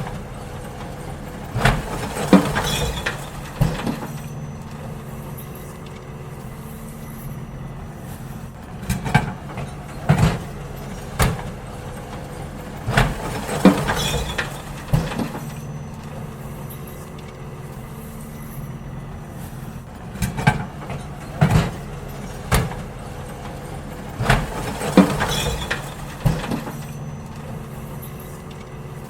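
Garbage truck running with a steady engine hum while wheelie bins are emptied into it. Clusters of clattering knocks and bangs recur about every five seconds, five times in all.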